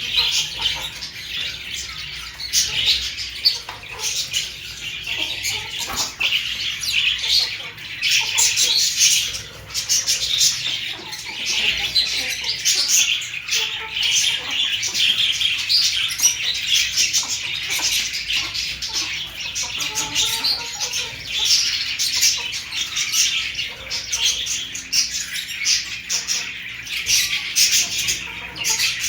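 Many birds chirping and squawking without pause, a dense chatter of short high calls.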